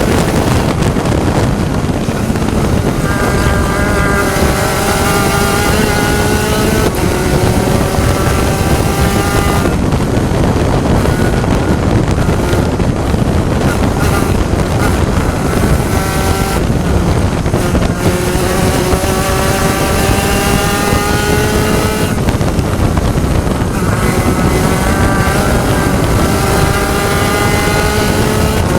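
Spec Racer Ford Gen3 race car's four-cylinder engine under full throttle, its pitch climbing through each gear and dropping back at every shift or lift, several times over. Heavy wind and road noise runs underneath.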